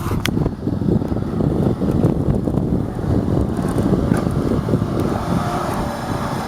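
Low, steady mechanical rumble, with wind noise on the microphone.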